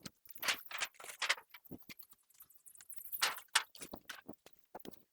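Scattered, irregular knocks and scuffs of hard objects being handled and set down, a few strokes louder than the rest, in a poultry shed where hollow bricks and water-filled cans are being placed against brooder guard sheets.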